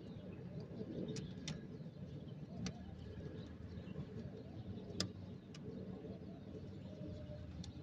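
A bird cooing over and over in the background. Several sharp small clicks come from hands handling the alternator's wire connectors and terminals, the loudest about five seconds in.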